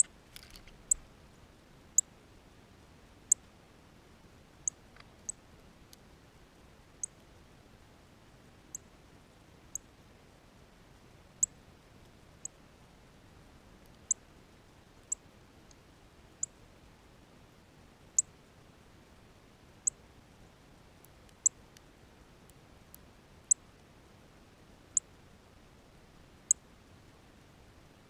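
A small bird giving short, sharp, high chip calls, one every second or two at an uneven pace, over a faint steady hiss.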